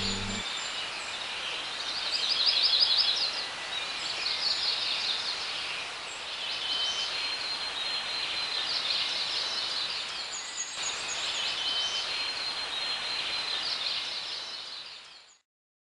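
Woodland birds singing: repeated short trilled phrases every second or two over a steady background hiss, fading out near the end.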